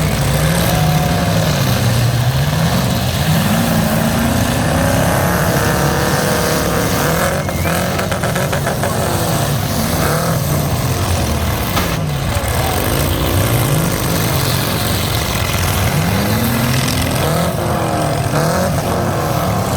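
Several demolition-derby trucks' engines revving up and down, their pitches rising and falling over one another. A few sharp bangs come about halfway through.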